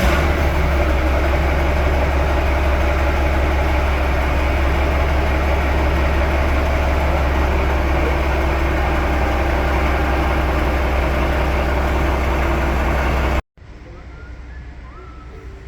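Heavy diesel locomotive engine running steadily close by with a deep, even drone. It cuts off abruptly about thirteen seconds in, leaving fainter background sound.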